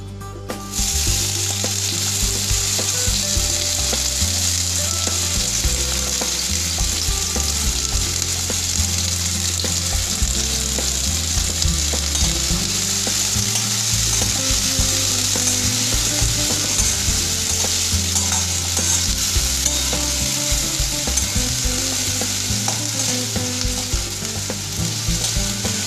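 Chopped onion sizzling in hot oil in a stainless-steel kadai, the sizzle starting suddenly about a second in as the onion goes into the pan and then holding steady. A spatula stirs the onion through the oil.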